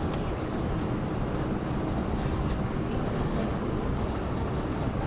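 Steady ventilation and room noise in a large exhibition hall, with a few faint ticks.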